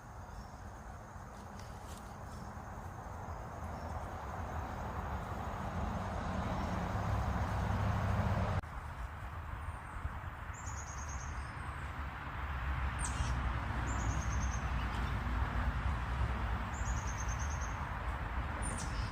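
Steady low outdoor rumble of background noise, growing louder and then dropping abruptly about eight and a half seconds in. Through the second half a bird calls a short high trill about three times, with a few sharp chirps between.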